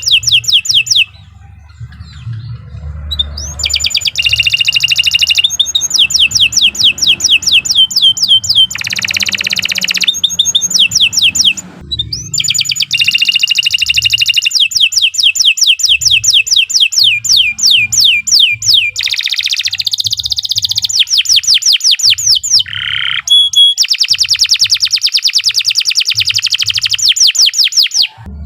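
Domestic canary singing long trilling phrases of rapid repeated notes, with a pause of a couple of seconds about a second in.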